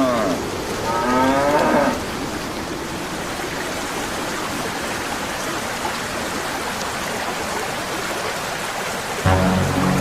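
A cow moos about a second in, a drawn-out call rising in pitch, over a steady rain-like hiss. Near the end a low steady hum comes in.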